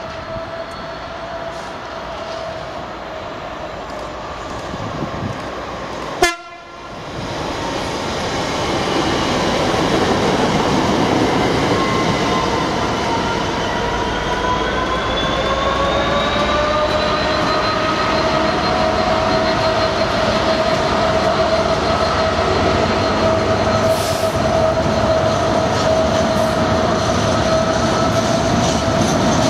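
A GB Railfreight Class 66 diesel locomotive with an EMD two-stroke V12 engine approaches and passes hauling freight wagons. The noise grows louder from about eight seconds in, with held tones that rise in pitch as the locomotive goes by, then the steady rumble and clatter of the wagons rolling past. There is a sharp click about six seconds in.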